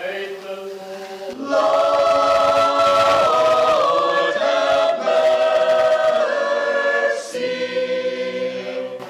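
Church choir singing a cappella in sustained chords, the sung response to a litany petition. The chords swell louder about a second and a half in, then settle onto a softer, lower chord near the end.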